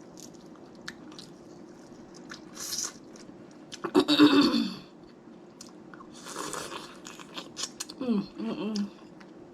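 Close-miked eating of snow crab legs: sharp clicks and cracks of shell, chewing and wet slurps, the loudest about four seconds in. Short hums of the eater's voice come in along with them, one near the end.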